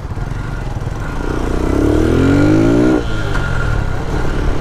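Lifan KP motorcycle's single-cylinder engine accelerating under throttle. The engine note rises steadily for about two seconds, then drops suddenly about three seconds in as the rider shifts up a gear.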